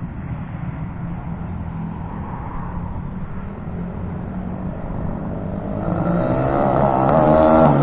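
Kawasaki KSR 110 minibike's small single-cylinder four-stroke engine being ridden hard at full throttle. It grows louder over the last two seconds and passes close near the end. The engine is believed to have been bored out beyond 110 cc.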